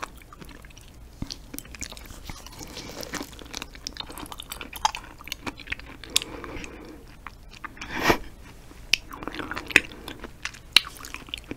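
Close-miked wet chewing and lip smacking of soft raw yellow stingray liver, full of small clicks, with one louder smack about eight seconds in.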